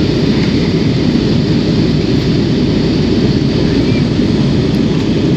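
Passenger aircraft's engines and rushing airflow, a steady, unbroken low noise.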